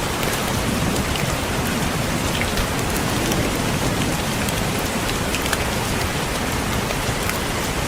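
Steady rain with many individual drops tapping on a window pane.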